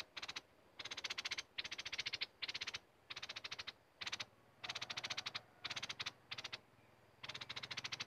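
A small bird calling in short, rapid rattling trills, each under a second long, repeated about eight times with brief gaps.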